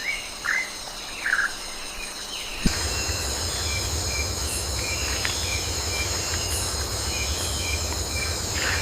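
Night rainforest ambience: a steady high-pitched insect chorus with a few short falling chirps. About three seconds in, the sound changes suddenly to a louder mix with a low steady rumble and hiss underneath, the insect buzz and short repeated calls continuing over it.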